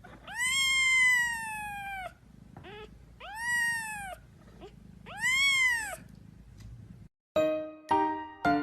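A cat meowing: three long, drawn-out meows, each rising and then falling in pitch, with a couple of short faint ones between them. Near the end the meowing stops, and piano music begins after a brief silence.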